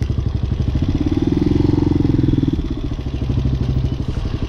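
Hawk 250 motorcycle engine idling with a rapid, even pulse, revving up briefly about a second in and settling back to idle at around two and a half seconds.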